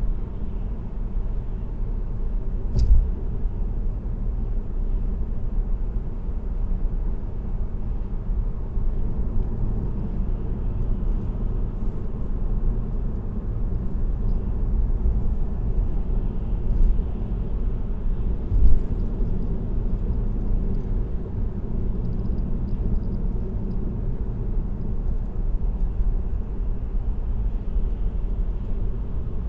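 Steady low tyre and road rumble of a car cruising on an expressway, heard from inside the cabin, with three brief knocks, the first about three seconds in and the other two close together past the middle.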